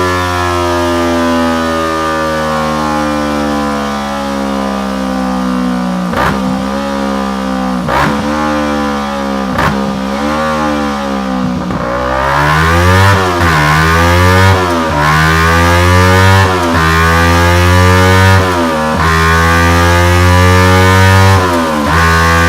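Kawasaki Versys 300X parallel-twin engine running through a Delkevic SL10 stainless steel exhaust, revving on a dyno. The pitch first sinks slowly for several seconds, then rises and falls again and again, every second or two, with sharp cracks where it turns.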